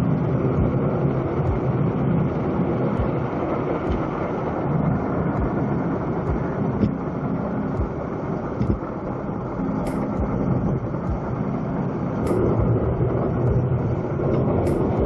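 A vehicle driving: steady engine and road rumble, with a few sharp clicks in the second half.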